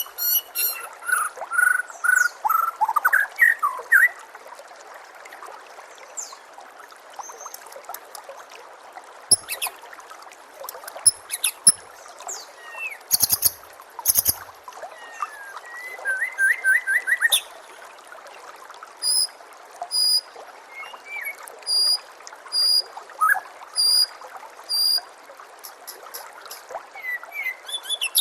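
White-rumped shama (murai batu) singing varied whistled phrases and short trills, then a run of evenly spaced high notes, over steady trickling water.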